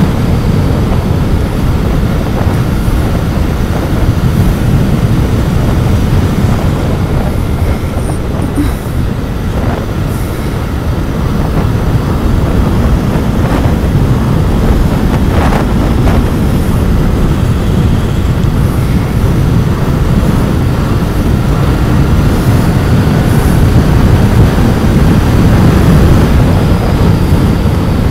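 Royal Enfield Continental GT 650's 648 cc parallel-twin engine running through its stock exhaust under way, with road and wind rush. The rumble eases a little about ten seconds in, then builds louder toward the end as the bike pulls harder.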